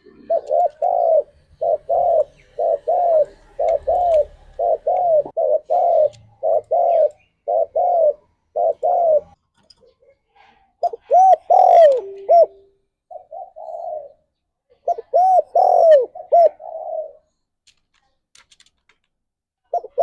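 Spotted dove (tekukur) cooing. A quick run of short, paired coos lasts for about nine seconds. After a pause come two more groups of arching coos, with a longer gap near the end.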